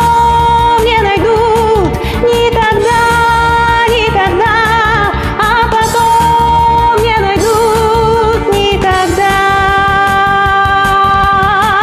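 Pop arrangement of a song with a steady beat and a female voice singing a wordless melody with strong vibrato and sliding notes.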